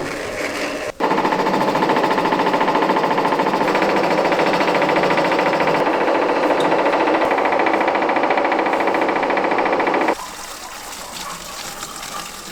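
A motor-driven machine running steadily with a fast, even rattling pulse, starting about a second in and switching off abruptly after about nine seconds.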